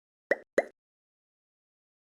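Two quick pop sound effects about a quarter of a second apart, the second a little louder.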